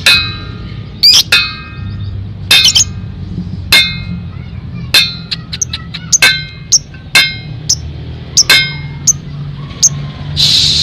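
A metal pot is struck again and again at an irregular pace, roughly one to two clinks a second. Each gives a sharp metallic ring that dies away quickly. A low steady hum runs underneath.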